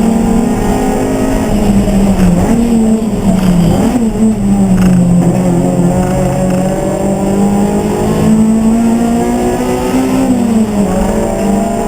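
Race car engine running hard, its pitch dipping and rising several times with gearshifts and throttle.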